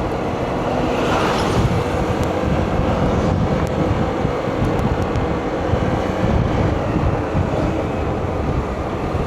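Steady running noise of a moving vehicle with wind on the microphone: an even rumble with a faint steady hum.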